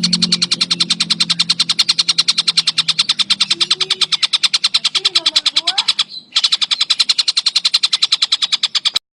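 Javan kingfisher (tengkek buto) calling in a fast, steady rattle of about ten sharp notes a second, breaking off briefly about six seconds in.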